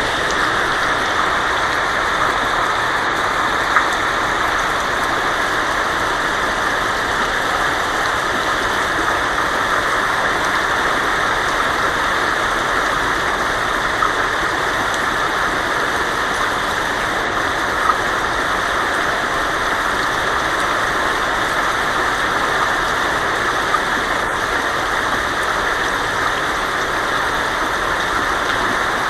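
Heavy rain falling steadily on a tin roof, an even hiss with a few louder single drop strikes standing out.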